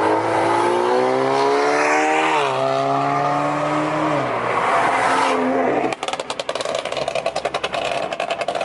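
Car engine accelerating hard: the engine note climbs steadily, dips briefly as it shifts up about two seconds in, climbs again, then falls away as the throttle is lifted. About six seconds in it gives way to a fast, even pulsing rattle.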